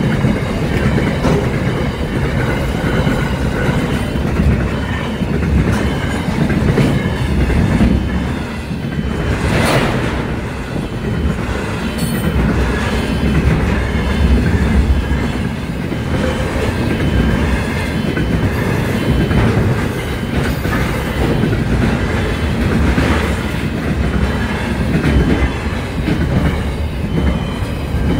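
Container freight train wagons rolling past over a level crossing: steel wheels rumbling and clattering steadily on the rails. A faint level-crossing bell dings about twice a second behind it, and brief hisses from the wheels come about ten seconds in and again near the end.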